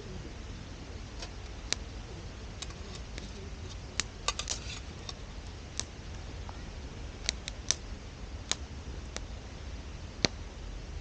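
Wood campfire crackling, with irregular sharp pops: a quick run of them about four seconds in and the loudest single pop near the end.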